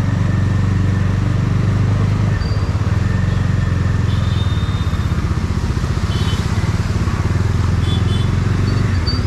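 Road traffic dominated by motorcycle engines running steadily close by, with a few brief faint high-pitched tones.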